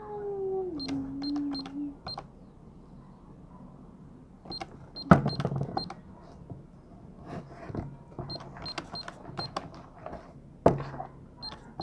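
Short, high electronic beeps in quick groups of three to five, the "ti, ti, ti" of button presses on a device her grandfather is using. Soft handling noise runs under them, with two sharp knocks, one about five seconds in and one near the end, and a brief falling hummed tone at the start.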